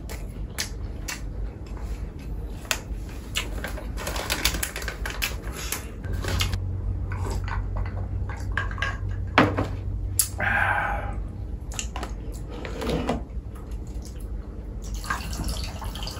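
Close-miked eating: wet chewing and mouth clicks in an irregular run, with a sharp louder smack about nine seconds in.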